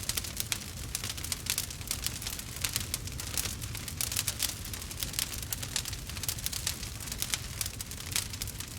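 Campfire burning and crackling: many small sharp pops every second over a steady low rumble of flame.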